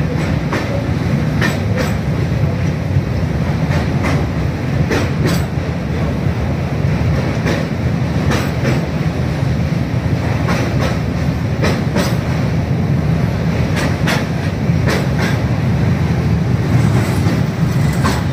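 Indian Railways express passenger coach running at speed: a steady rumble of wheels on rails with irregular sharp clicks as the wheels pass over rail joints, heard from inside the coach by an open window.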